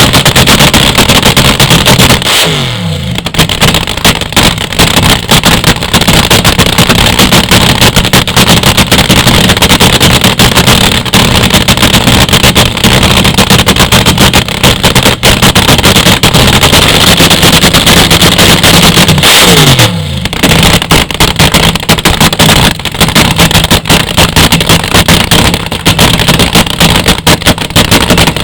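Drag race car's engine running loud at a high idle. Twice, about three seconds in and again around twenty seconds in, the revs fall away briefly and then pick back up.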